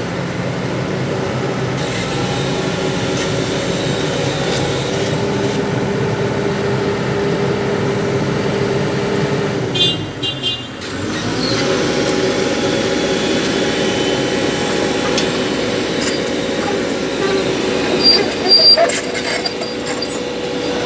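Heavy diesel engine running steadily. It dips briefly about ten seconds in, then picks up and runs on, with a few knocks and clatters near the end.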